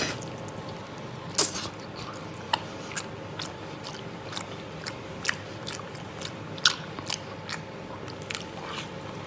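A man chewing spicy braised beef hoof tendon at close range, with irregular wet mouth smacks and clicks; the loudest come about a second and a half in and again near seven seconds.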